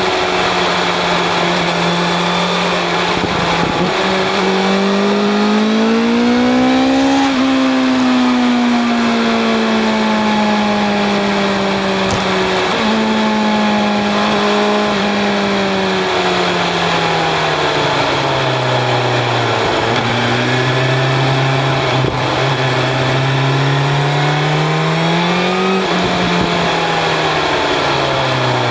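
BMW S1000 RR inline-four with an Akrapovic exhaust, ridden at speed: the engine note climbs under acceleration to a peak about a quarter of the way in, sinks slowly as the bike eases off, climbs again near the end and then drops away.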